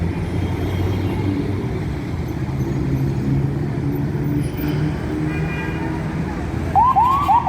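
Steady low rumble of road traffic in a jam, engines idling and crawling. Near the end an emergency siren starts up in several quick rising-and-falling sweeps.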